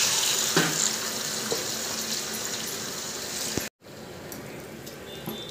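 Marinated chicken sizzling loudly as it is poured into hot oil in a frying pan, the sizzle slowly fading. It cuts off abruptly about three and a half seconds in, leaving a quieter stretch with a few light clicks of a steel spatula stirring the pan.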